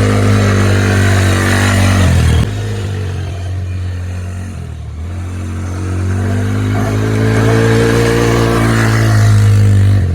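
Dirt bike engine at steady throttle, cutting back abruptly about two and a half seconds in, then rising in pitch and loudness again as the bike accelerates over the last few seconds.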